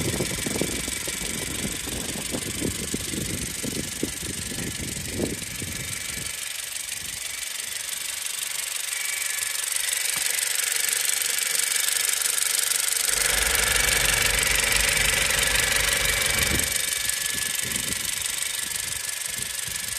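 2017 Honda CR-V running, with an irregular low knocking and rattling over a steady hiss that the owner is unsure is normal. The knocking stops about six seconds in, a louder, deeper hum comes in about halfway through for a few seconds, and the knocking returns near the end.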